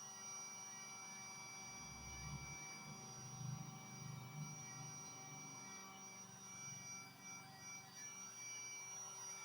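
Heat gun running steadily: a constant fan-motor hum with several steady high tones over it.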